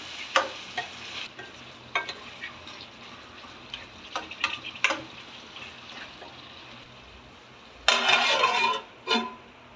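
Chicken gizzard curry sizzling in a pan while a spoon stirs it, with scattered knocks and scrapes of the spoon against the pan and a longer, louder scrape about eight seconds in.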